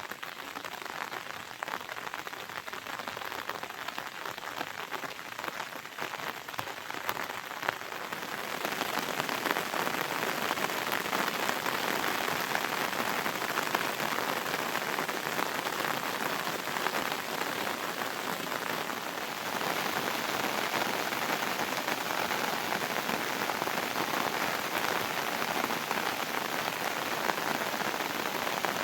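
Heavy monsoon rain falling in a steady, dense hiss, growing louder about a third of the way in.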